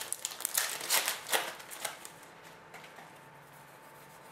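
SP Authentic hockey trading cards being handled and flipped, sliding against each other in a quick run of rustles over the first two seconds, then fainter.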